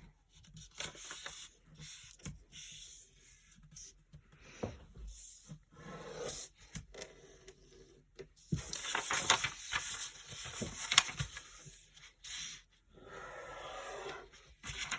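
A sheet of paper being handled, folded and creased by hand: irregular rustling and scraping, loudest a little past the middle.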